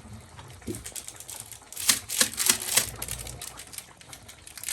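Rapid clicking and clinking, densest about two seconds in, as a spoon stirs Royco into soup in a cup.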